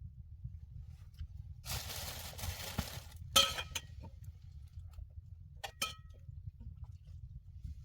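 A rustle, then several light clinks of cookware or utensils, each ringing briefly, over a steady low rumble.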